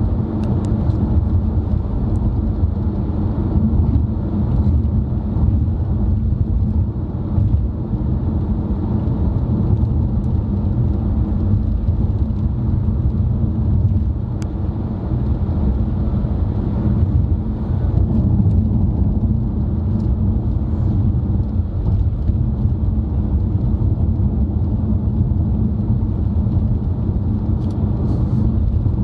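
Steady low rumble of road and engine noise heard from inside a moving car's cabin, with a few faint ticks.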